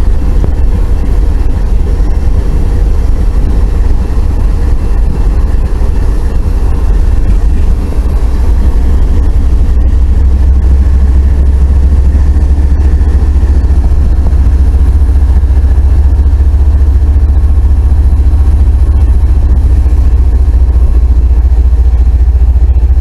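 Loaded freight train rolling slowly past, a loud, steady low rumble.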